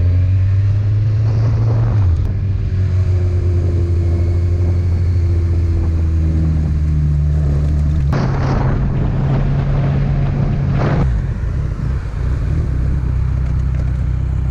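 Motorcycle under way: a loud, steady low engine drone mixed with wind noise, the drone shifting in pitch a few times. Two brief rushes of noise come about 8 and 11 seconds in.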